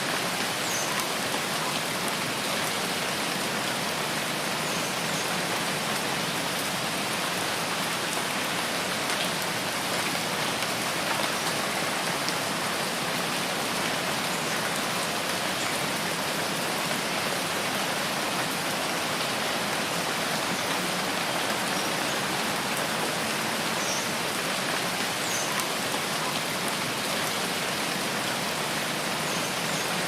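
Steady rain falling, an even hiss of many drops that does not change. A few faint, short, high-pitched chirps come through it now and then.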